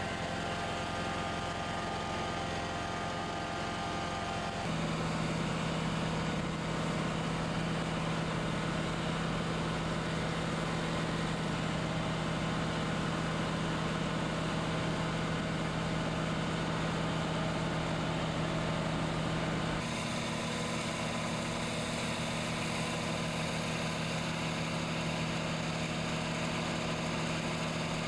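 A steady motor hum with a constant low drone, changing abruptly in character twice, about five seconds in and about twenty seconds in.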